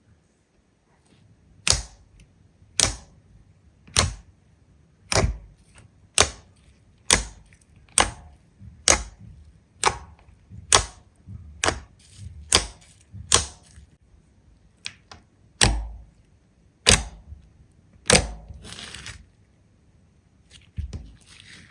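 Slime being pressed and worked by hand, giving sharp clicking pops about once a second, some in quick pairs, which stop a few seconds before the end.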